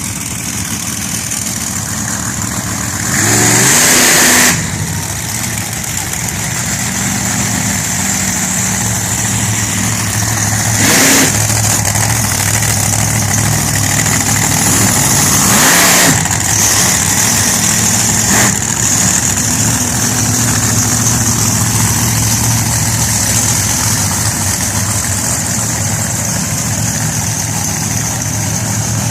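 Monster truck engines running steadily, with several sharp revs that rise and fall in pitch: the loudest about three to four seconds in, others around eleven and sixteen seconds in.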